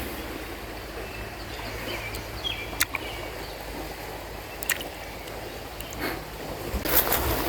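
Shallow river water rippling and splashing, with a few sharp ticks; the water noise grows louder near the end.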